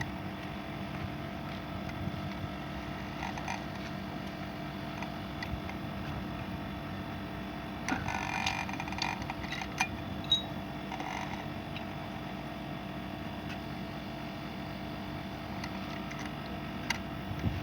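Air conditioner running with a steady hum, just charged with R407c refrigerant. A few clicks and knocks come about halfway through and again near the end.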